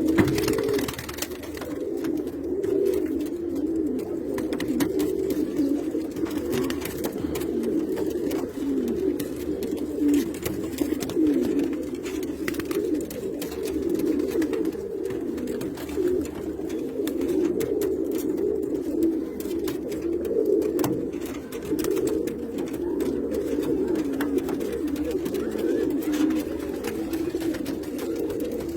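A flock of Pakistani-breed domestic pigeons cooing continuously in many overlapping voices, with a few faint clicks.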